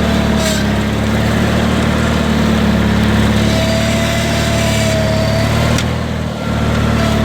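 Tractor engine running steadily under load while plowing snow with a blade.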